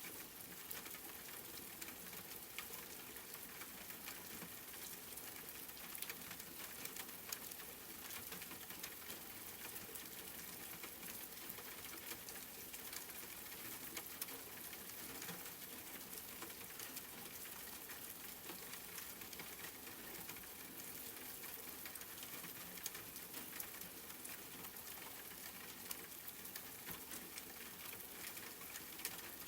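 Steady rain: an even hiss with many small drops ticking throughout.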